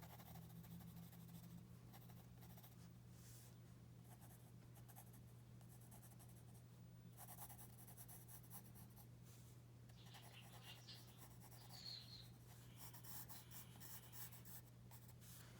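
Soft graphite pencil rubbing and scratching lightly on paper in repeated faint strokes, shading and blending, over a steady low hum.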